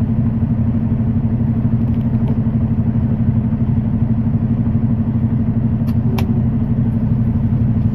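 Semi-truck's diesel engine running steadily while driving, heard from inside the cab, with two brief clicks about six seconds in.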